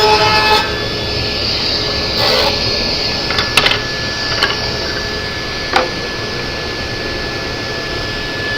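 Table saw running: a rip cut through a red alder board finishes about half a second in, then the blade spins free at a steady pitch while a few sharp clicks and knocks sound at the table.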